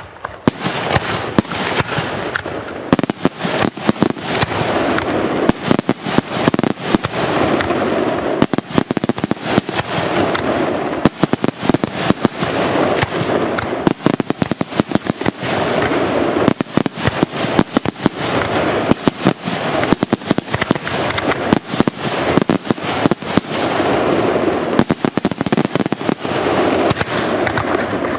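Aerial fireworks display going off in a dense, near-continuous barrage: many sharp bangs a second over a steady din of bursting shells.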